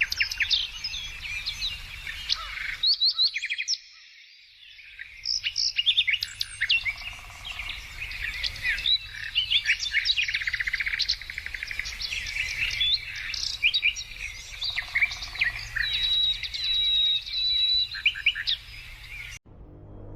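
Several songbirds singing and chirping at once, with rapid trills and overlapping calls. The birdsong fades almost away briefly about three seconds in, then stops abruptly near the end.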